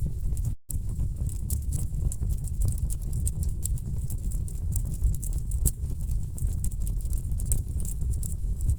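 Wood fire burning in a fireplace: a low, steady rumble of burning logs under many irregular sharp crackles and pops. The sound cuts out for a split second about half a second in.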